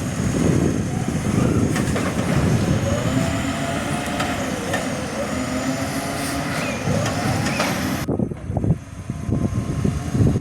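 Garbage truck engine running loudly close by, with a faint wavering whine over it. The sound changes abruptly about eight seconds in, losing its hiss.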